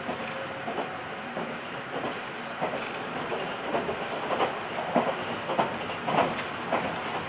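Electric train rolling along, heard from inside the car: steady running noise with wheel clacks over the rail joints about every half second, louder in the second half.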